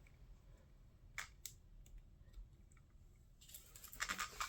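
Faint handling noise: a couple of light clicks about a second in, then a short rustling, clicking clatter near the end.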